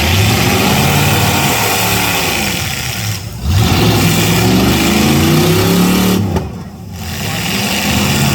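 Eight-cylinder demolition derby car engines revving hard, their pitch climbing and falling as the cars accelerate. The sound drops briefly twice.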